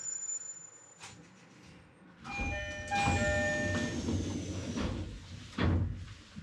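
Inside an E129-series electric train car: the train's running noise rises about two seconds in, with an electronic chime of several steady tones and a high whine that falls slowly as the train slows into a station. A loud thump near the end.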